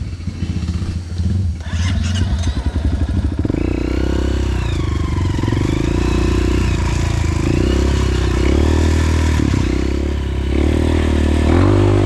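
Honda CRF150L single-cylinder four-stroke trail bike engine chugging at low revs. About three and a half seconds in it pulls harder and runs on, its pitch rising and falling as the throttle is worked, with a rev up and back down near the end.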